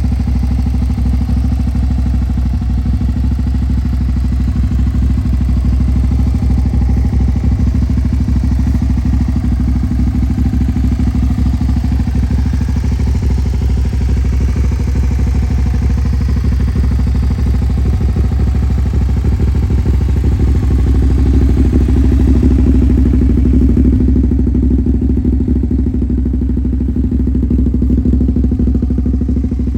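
Suzuki SV400S carburetted V-twin running steadily through a KENZ SPORTS aftermarket muffler, a deep, even exhaust pulse that swells slightly a little past the middle.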